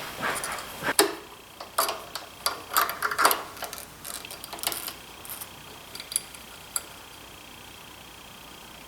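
Irregular light clicks and knocks of hand tools and metal parts being handled, thinning to a few faint ticks after about five seconds.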